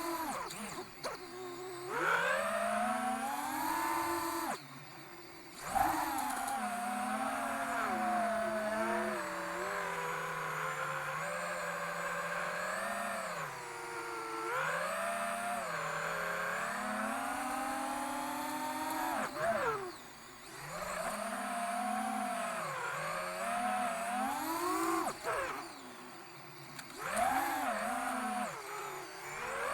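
FPV quadcopter's Emax Eco II 2306 1900kv brushless motors and propellers whining, the pitch rising and falling with throttle and dropping away briefly a few times. The owner hears one motor stumble and suspects an ESC desync, not sure which motor.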